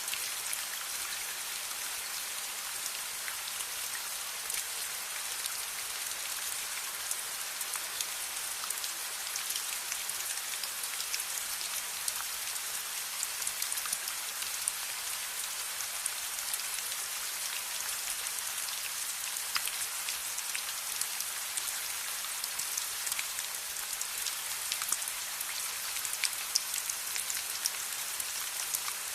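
Steady, even rain, with many scattered sharp drop ticks over the continuous hiss.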